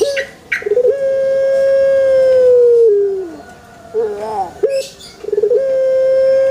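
Male Barbary dove (burung puter) cooing: two long drawn-out coos, each opening with a short stutter, holding a steady note for about two seconds and dropping in pitch at the end, with a short swooping call between them.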